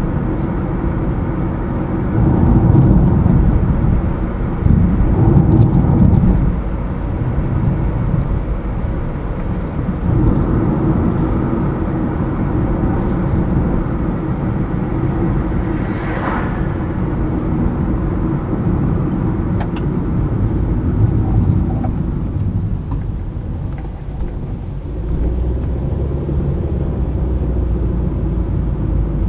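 Car driving along a highway, with steady road and engine noise and louder rushes of noise about two and five seconds in.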